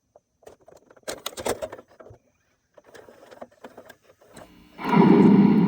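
A scatter of sharp clicks and rattles, thickest about a second in. Then loud music starts near the end.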